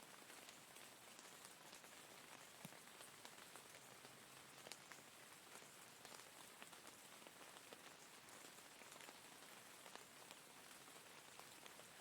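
Quiet, steady rain falling, with the ticks of individual drops scattered through it.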